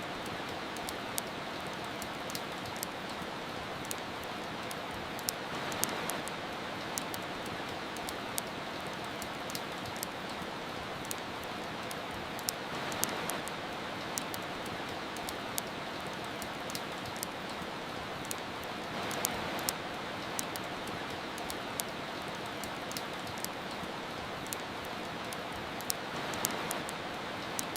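Steady rain hiss mixed with frequent small, sharp crackles and pops from a wood fire. The rain swells gently every six or seven seconds.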